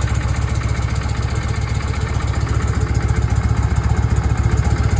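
1981 Harley-Davidson Shovelhead air-cooled V-twin engine idling with an even pulsing beat, running just after its first start in 40 years while old residue burns off the engine.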